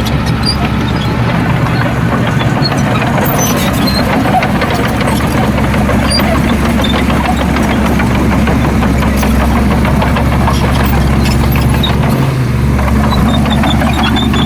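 Heavy diesel earthmoving machinery running steadily, with many small sharp knocks and clatters over the engine.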